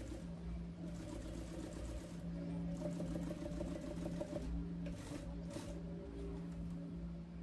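Sewing machine running steadily, stitching a pleat channel through leather and half-inch foam, with a steady motor hum.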